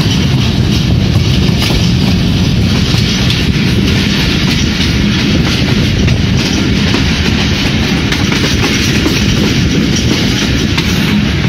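Pakistan Railways passenger train running at speed, heard from on board at an open door or window. There is a steady rumble of the wheels on the track, with the clickety-clack of rail joints.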